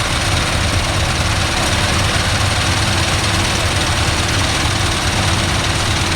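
Heavy truck diesel engine idling steadily at close range, with a low, even rumble that does not change.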